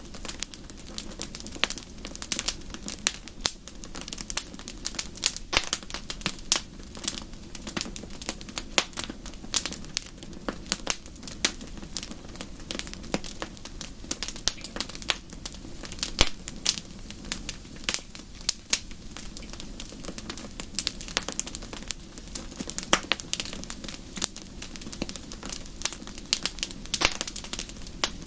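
Wood fire crackling in a fireplace: a dense run of irregular sharp pops and snaps over a steady low rumble of flames.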